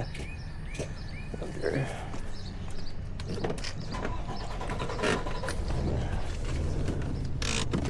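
A truck engine idling with a steady low hum that picks up and grows louder about six seconds in, with scattered light clicks and knocks over it.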